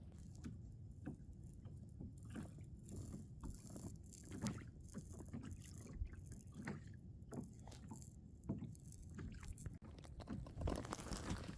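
Quiet water lapping against a kayak's hull, with many small scattered knocks and clicks.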